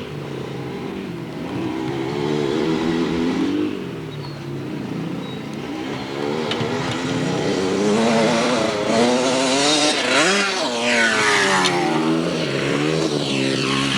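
Dirt bike engine running and revving, its pitch wavering up and down. It gets louder from about seven seconds in, with quick drops in pitch around ten seconds and again near the end.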